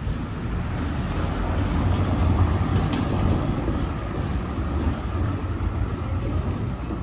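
A motor vehicle passing close by on the street, its engine rumble growing louder to a peak about two seconds in and then easing off.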